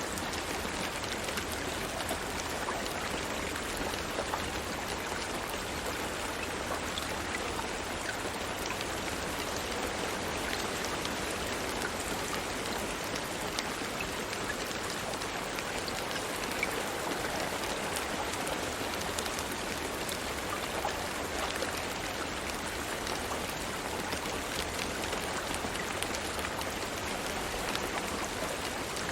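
Steady rain falling, a constant hiss with many individual drops pattering on surfaces.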